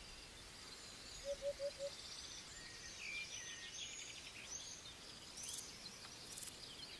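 Woodland birdsong: several small birds chirping and trilling, faint, with a low call of four quick evenly spaced notes about a second in.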